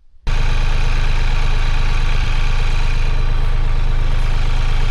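Vehicle engine running steadily and evenly, with a strong low rumble, cutting in suddenly a moment after the start.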